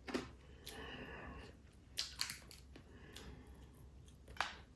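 A person eating crab close to the microphone: quiet chewing with a few short, sharp clicks and crunches. The loudest come about two seconds in and near the end.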